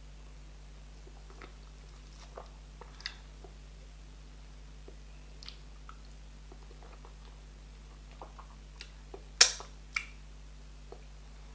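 Close-miked eating sounds: wet chewing and biting on pieces of meat from okra soup, with scattered small clicks and smacks. Near the end there are two louder sharp clicks about half a second apart, over a faint steady hum.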